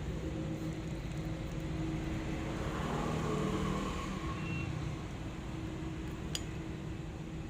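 Low, steady rumble of road traffic with engine tones, and a single sharp click about six seconds in.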